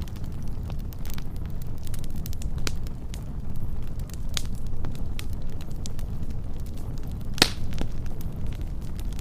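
Wood fire burning with a steady low rumble and scattered crackles and pops, one sharper pop about seven seconds in.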